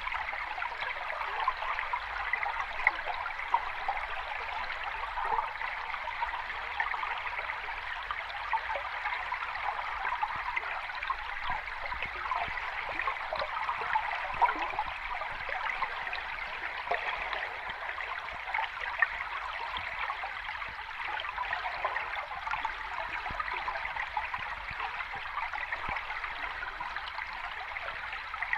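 Running water: a steady, even rush with fine trickling and fizzing detail, without the slow rise and fall of breaking waves.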